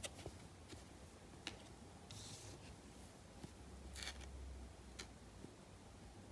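Faint handling of trading cards and their packs: a few light clicks and taps, with two brief rustling slides, the louder about four seconds in.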